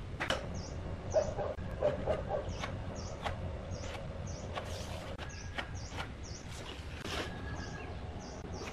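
A small bird chirping repeatedly, a short high chirp about every half second, over a steady low rumble, with scattered light taps and handling noises from a template and pencil being worked on a pine board.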